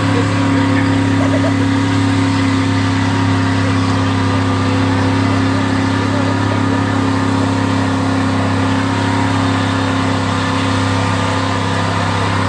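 Gas-engined street pickup truck running flat out at high, nearly constant revs under load as it pulls a sled down the dirt track.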